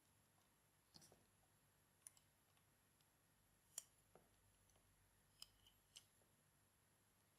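Faint, sparse clicks, about six spread over the few seconds, from rubber bands being placed and hooked over the pegs of a plastic bracelet loom.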